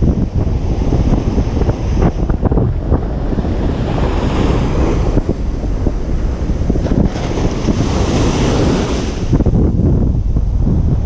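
Ocean surf breaking on a beach. A wave's hissing wash swells from about four seconds in and fades after about nine. Wind buffets the microphone with a heavy low rumble.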